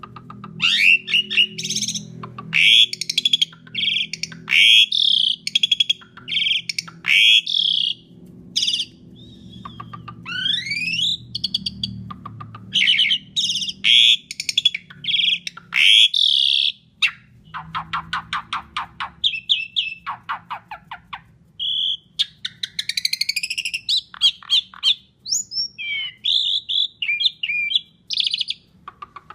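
Asian pied starling singing vigorously: a varied, loud run of whistles, chattering notes and sharp calls, with a stretch of fast, evenly repeated notes past the middle.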